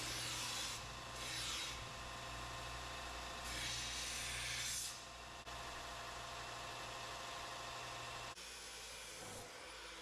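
Mild steel stock being cleaned up with an abrasive tool: three scraping passes over a steady hum that cuts off about eight seconds in.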